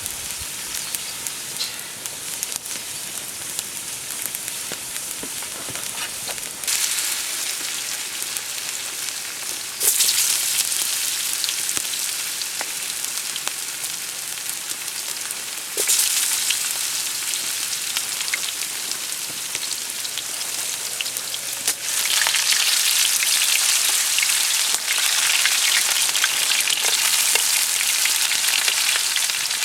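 Food sizzling in hot oil in a pan. The sizzle jumps sharply louder three times, then eases off a little after each, with faint crackles throughout.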